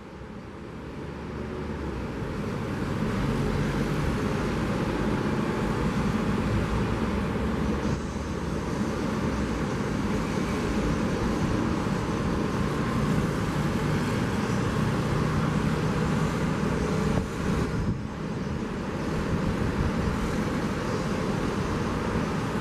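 Motor vehicle engine running on the seafront road, its sound swelling over the first few seconds and then holding steady, over the broad rush of surf and wind.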